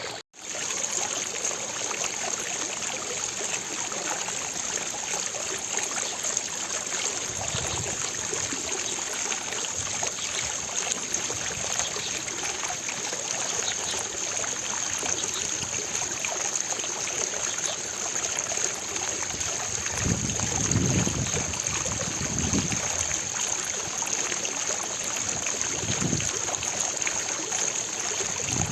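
Water from a fountain splashing and falling into its basin, a steady rushing noise, broken by a brief gap right at the start.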